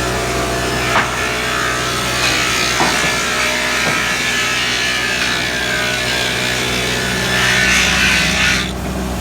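Sawmill saw cutting through timber over the steady hum of its drive motor, with a few knocks along the way. The cutting noise stops abruptly near the end as the saw comes out of the wood, leaving the machine hum.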